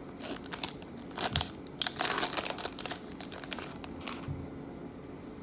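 Wrapper of a trading card pack being torn open and crinkled, an irregular run of crackles that dies down about four seconds in.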